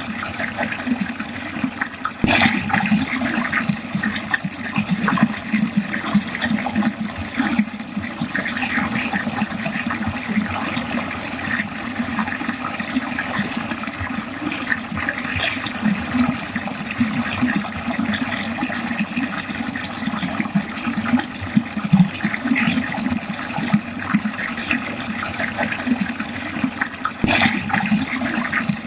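Water running steadily down a drain, splashing and gurgling without a break. There are two brief clicks, one about two seconds in and one near the end.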